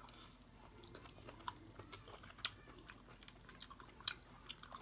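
Faint chewing of steamed king oyster mushrooms, a scatter of short mouth clicks, with a few sharper clicks along the way.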